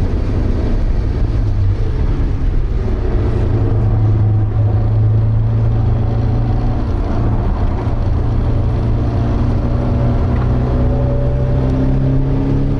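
Porsche 924's 2.0-litre inline-four engine running under load, heard from inside the cabin, with road and wind noise behind it. The revs hold fairly steady and edge up slightly near the end.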